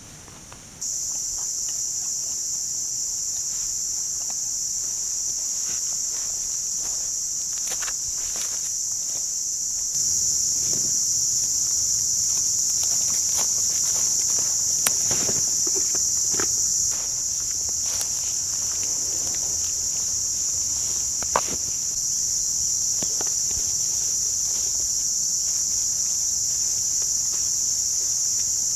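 Steady, high-pitched insect chorus that comes in about a second in and jumps in level about ten seconds in. Scattered light clicks and knocks over it.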